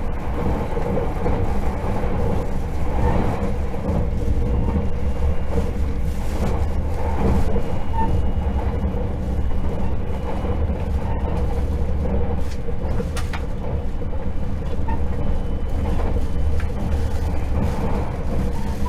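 Steady interior running noise of a 681/683-series electric limited express train: a continuous low rumble of wheels on rail with a faint steady hum.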